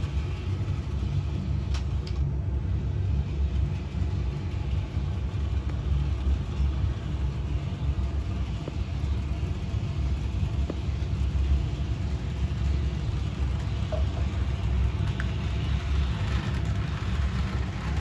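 HO-scale Bachmann Toby the Tram Engine model locomotive running along the layout's track, giving a steady low rumble from its motor and wheels on the rails, with a few faint clicks.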